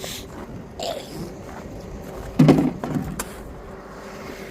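Steady engine hum, with a short loud sound about two and a half seconds in.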